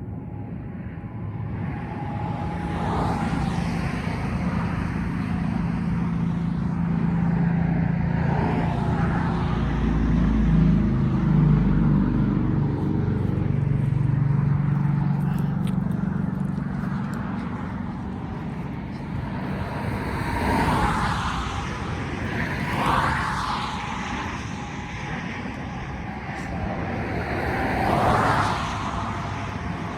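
Motor vehicle engines and traffic: a steady engine hum that swells to a peak in the middle and fades, then several shorter passes that rise and fall near the end.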